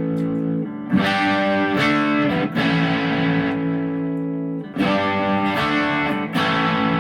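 ESP LTD EC-256 electric guitar through an amplifier, chords strummed in two groups of three, each chord left ringing.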